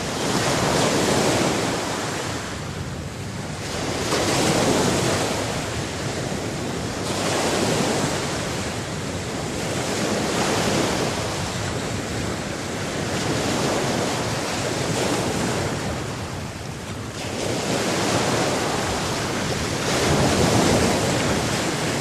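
Sea surf washing in and out: a steady rush of water that swells and eases about every three seconds, as waves break and draw back.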